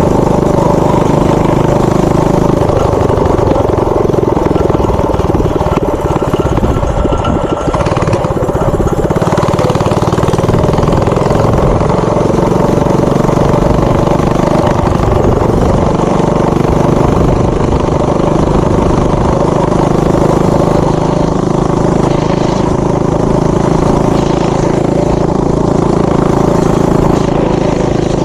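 Tillotson 212 single-cylinder four-stroke engine on a mini bike running. Its speed wavers about a quarter of the way in and shifts again around the middle.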